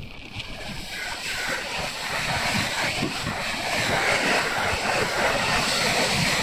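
Thunderbird limited express electric train passing close by at speed. The rush of wheels on rail and moving air builds from about a second in and is loudest near the end as the cars go by.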